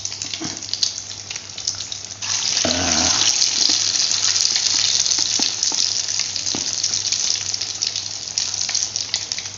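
Potato perkedel patties coated in beaten egg deep-frying in hot oil in a wok: a steady sizzle that grows much louder about two seconds in, as another egg-coated patty goes into the oil.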